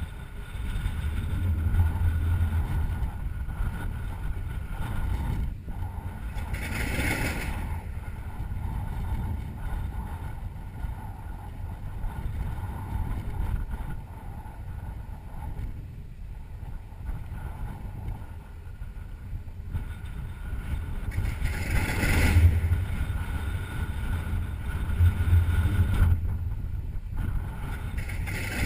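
TBM Avenger's Wright R-2600 Cyclone 14-cylinder radial engine running with a steady deep rumble, swelling louder twice.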